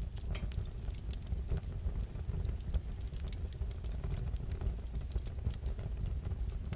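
Wood fire burning in a fireplace: a steady low rumble with scattered, irregular crackles and pops.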